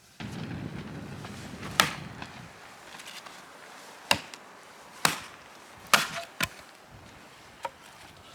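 A blade chopping into wood: about six sharp strikes at uneven intervals. The first two seconds also hold a rustling, scraping noise of handling.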